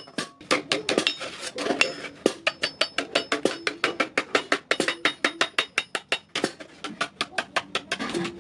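A blacksmith's hammer beating iron rod on an anvil in a fast, steady rhythm, about five or six blows a second, each blow ringing briefly, with a short break just after the start.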